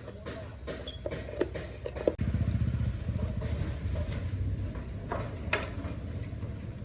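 A few light knocks and clatter, then about two seconds in a motor starts and runs with a steady low rumble.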